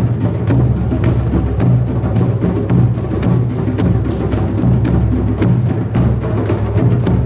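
A drum circle: a group of drums played together in a steady, driving rhythm, with deep bass tones under sharp, bright slaps.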